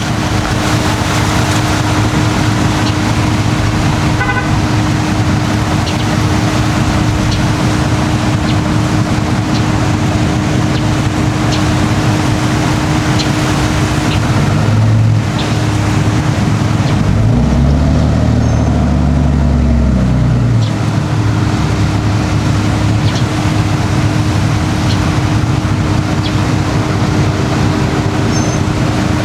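Boat engines running steadily with a constant low hum. About 17 seconds in, one deeper engine revs up, holds for a couple of seconds, then drops back.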